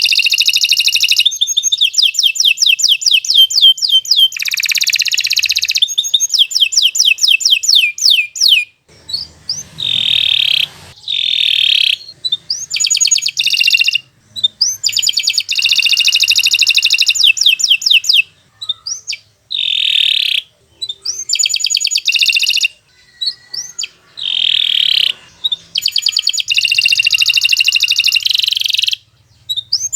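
Domestic canary singing a long, fast song: rapid trills of quickly repeated high notes, in phrases of a few seconds broken by short pauses.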